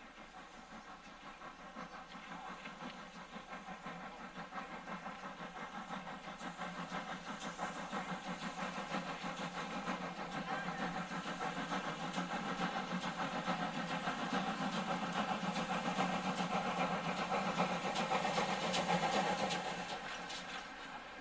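Railway locomotive running, growing steadily louder as it draws near, loudest shortly before the end, then dropping away.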